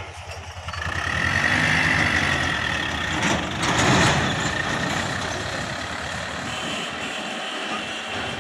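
Mahindra 595 tractor's diesel engine running; it gets louder about a second in, with a steady whine over it for a couple of seconds and a brief louder rush of noise about four seconds in.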